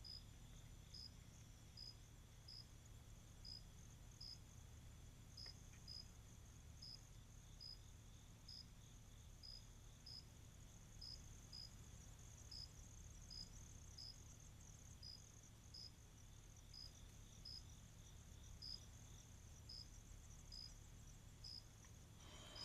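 Insects calling, faint: one high chirp repeating evenly, about three every two seconds, over a steady high-pitched insect drone.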